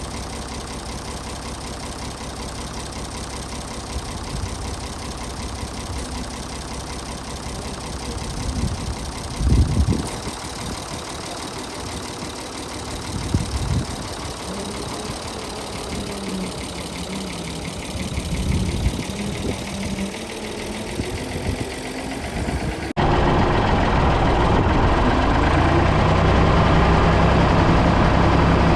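Ford 555 backhoe loader's engine running, with a few brief louder surges. About 23 seconds in it becomes abruptly louder and steady.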